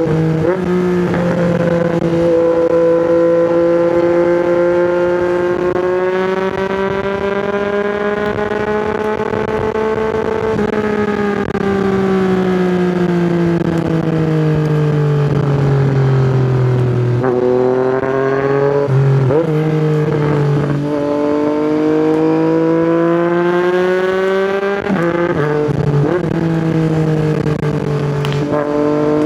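Yamaha MT-09's three-cylinder engine through an Akrapovic exhaust, heard while riding. The pitch climbs and falls with throttle and road speed, with a long easing-off in the middle and several abrupt pitch changes at gear shifts in the second half.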